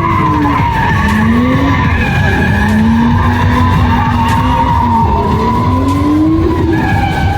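Car engine revving up and down again and again under a long, steady tyre squeal, the sound of a car drifting.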